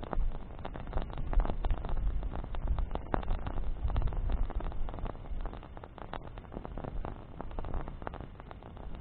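Campfire of burning branches crackling, with irregular sharp pops throughout over a low rumble of wind on the microphone.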